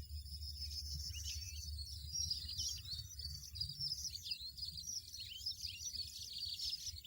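European goldfinch song: a fast, continuous twitter of short chirping notes, over a low steady rumble.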